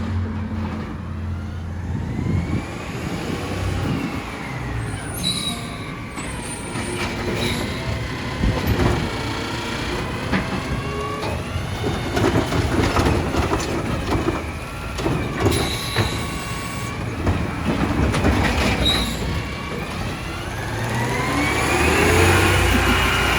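Diesel side-loader garbage truck at work: the engine revs up and down several times, with sharp metallic clanks and knocks scattered throughout.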